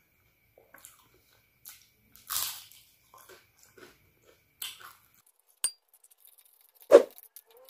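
Crispy rempeyek peanut cracker and noodles being bitten and chewed up close: scattered crunches and mouth sounds, a bigger crunch about two seconds in and the loudest sharp snap near the end.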